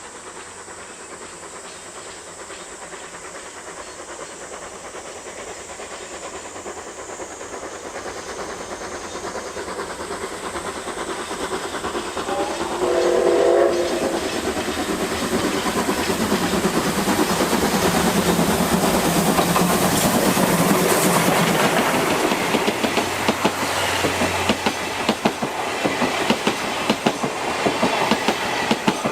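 Steam locomotive C57 180 approaching and passing, its exhaust chuffs growing steadily louder. A short blast of its steam whistle comes about halfway through. Near the end the coaches follow, clattering over the rail joints.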